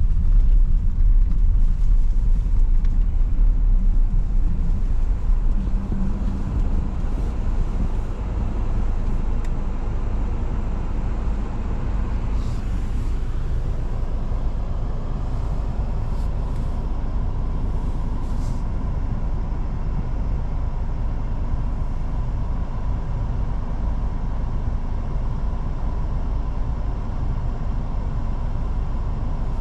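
Car driving on city streets: a steady low rumble of engine and road noise, a little louder for the first several seconds and then even.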